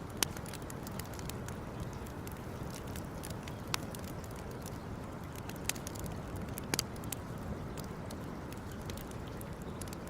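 Campfire crackling: scattered sharp pops and snaps over a steady low rush, the loudest pops just after the start and a little past the middle.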